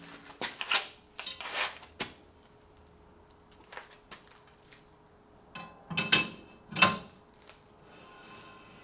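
Metal tools and parts knocking and clinking while being handled: a quick run of clanks at the start, then a louder group of clanks with a short metallic ring about six to seven seconds in.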